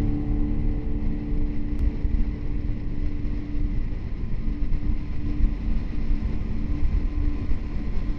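Kawasaki Z650RS parallel-twin motorcycle engine running at a steady cruising speed, with wind rushing over the microphone.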